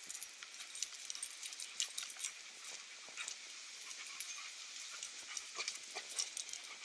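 Puppies play-wrestling: scuffling with many quick, irregular clicks and scrapes of paws and claws, and dog noises.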